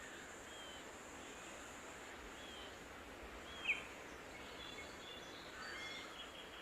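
Faint outdoor ambience with a steady hiss and scattered short bird chirps, the loudest a quick falling note about three and a half seconds in.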